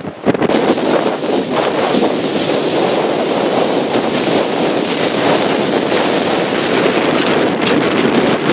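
Blizzard wind blasting across the microphone: a loud, steady rush of wind noise.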